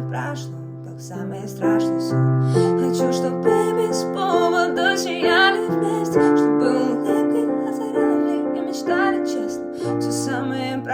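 Piano playing slow sustained chords, with a woman's singing voice coming in over it about four seconds in and again near the end.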